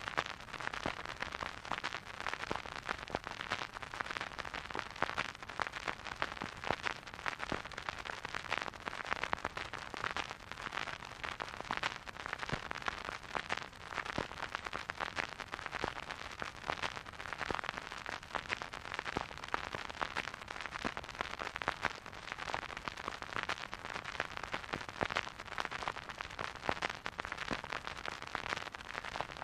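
Vinyl record surface noise on a spinning turntable: a steady soft hiss thick with small crackles and pops, with no music.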